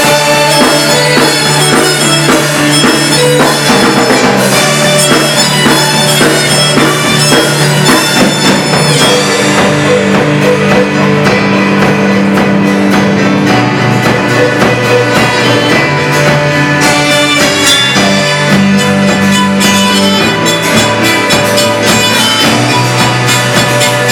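Live worship band playing an instrumental passage, with drums and a bass line that moves to a new note every few seconds under other sustained instruments; loud and continuous.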